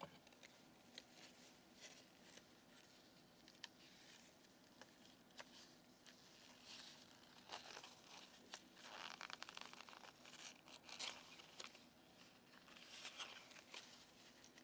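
Faint crinkling and scattered small clicks from a dental implant's plastic packaging being opened and handled, with the busiest crinkling past the middle and again near the end.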